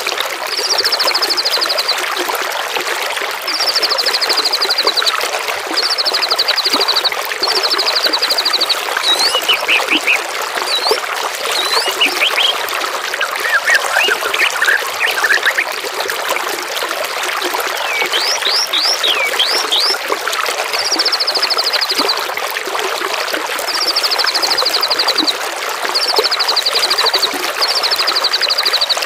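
Steady trickling of running water with songbirds singing over it: a short, fast trill, falling slightly in pitch, is repeated about eight times, mixed with quick downslurred whistles.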